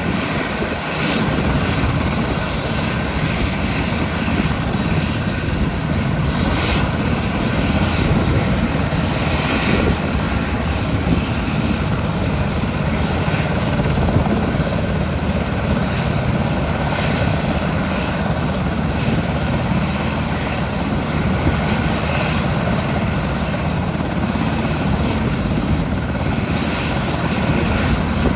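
SH-60K naval helicopter's rotor and twin turboshaft engines running, a loud, steady noise.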